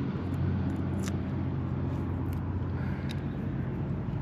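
Steady low motor hum, with a few faint clicks over it.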